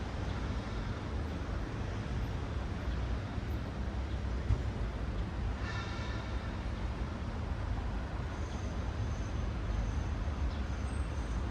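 Steady low rumble of city road traffic with cars passing, and a short high whine about six seconds in.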